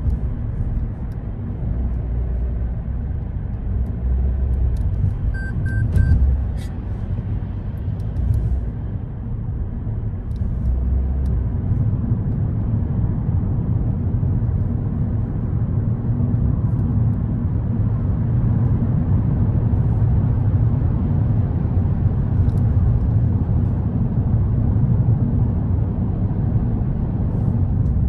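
Car driving on city streets: steady road and engine rumble, a little louder in the second half. A brief run of three short beeps comes about five seconds in.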